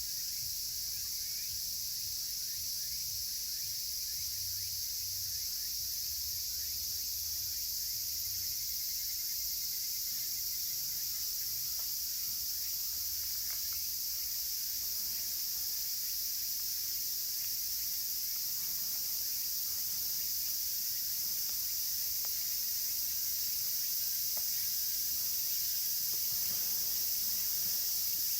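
Chorus of cicadas, among them higurashi, as a steady dense high-pitched drone, with a few faint crackles from a wood fire.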